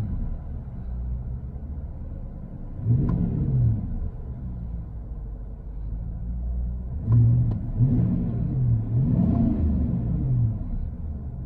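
5.3-litre V8 of a 2019 GMC Sierra 1500 running through a Flowmaster 50 Series true dual exhaust. It idles and is blipped: one rev about three seconds in, then several quick revs one after another in the second half.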